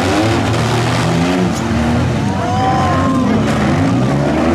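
Several demolition derby minivan and car engines running and revving at once, their pitches rising and falling over one another.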